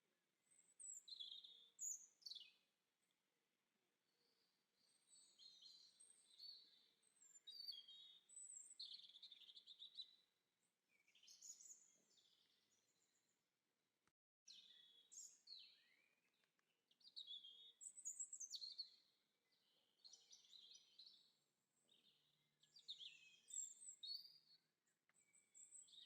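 Faint birdsong: several birds chirping and trilling in short, repeated phrases, with a brief moment of total silence about halfway through.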